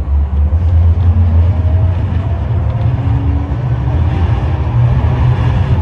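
Tram running along the track, heard from inside the car: a loud, steady low rumble with a few faint whining tones.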